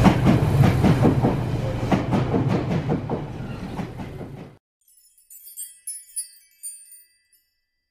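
JR Kyushu 885 series Kamome limited express electric train running past close along the platform, its wheels clicking over the rail joints, fading before it cuts off about four and a half seconds in. Soft chime-like music follows.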